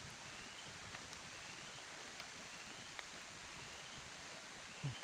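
Faint rainforest ambience: an even hiss with a short, rising call repeating about once a second, a few light clicks, and a low thump near the end.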